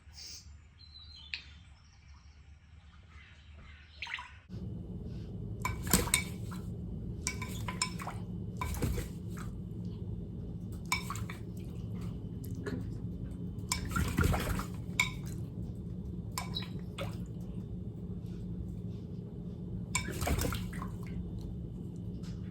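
A few short chirps from an African grey parrot, then a tap is turned on about four and a half seconds in and runs steadily while dishes and cutlery clink and knock.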